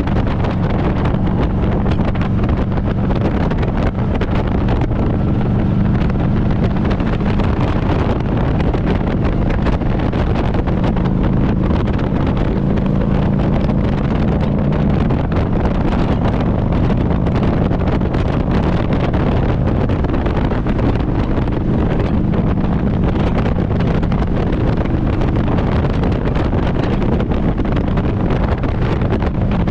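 Harley-Davidson Road Glide's V-twin engine running steadily under way, with wind rushing over the microphone.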